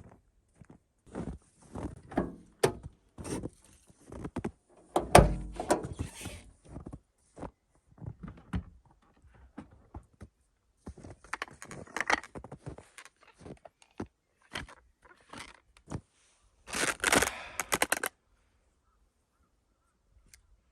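A string of irregular knocks and thunks mixed with rustling, the heaviest knock about five seconds in and a dense burst of rustling near the end.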